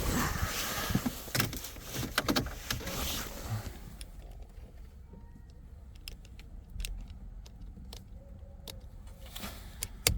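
Keys jangling and small clicks and rattles of handling inside a car, busiest in the first few seconds, then a few scattered clicks, with a sharp knock right at the end.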